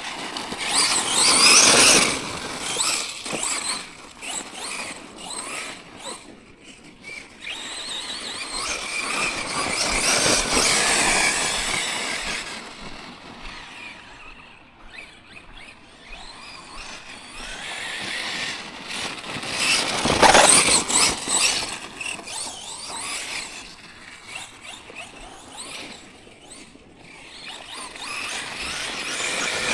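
Tekno MT410 2.0 electric RC monster truck running, its motor and drivetrain giving a high whine that swells and fades as it speeds up and passes. The loudest surges come about two seconds in, around ten to twelve seconds and about twenty seconds in.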